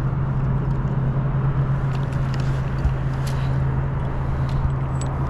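Steady low motor hum under an even rushing noise, the running noise of a fishing boat, with a few faint clicks.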